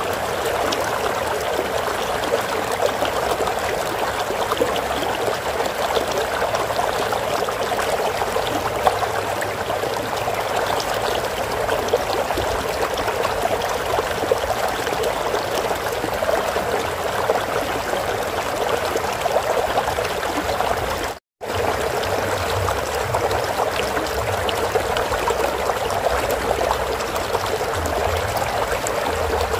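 Stream water running steadily with a trickling, splashing flow. The sound drops out completely for a split second about two-thirds of the way through, then resumes unchanged.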